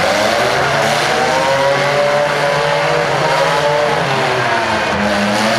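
Demolition-derby small cars' engines revving hard, their pitch rising and falling as the cars manoeuvre.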